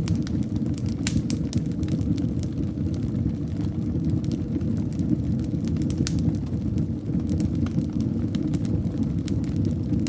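Wood fire in a fireplace burning with a steady low rumble and frequent sharp crackles and pops.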